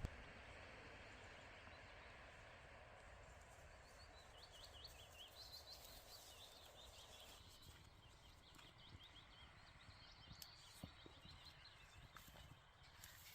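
Near silence: faint outdoor background with a run of faint high chirps between about four and seven seconds in.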